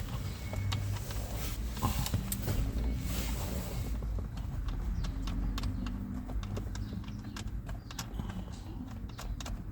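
Scattered light clicks and knocks of hand tools and small parts being handled during steering-wheel reassembly, more frequent in the second half, over a steady low hum.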